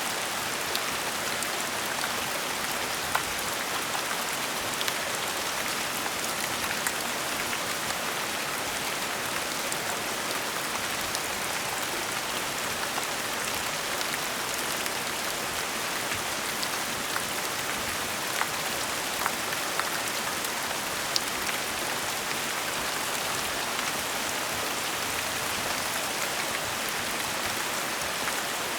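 Steady gentle rain falling, an even hiss with scattered individual drops ticking sharply on a surface.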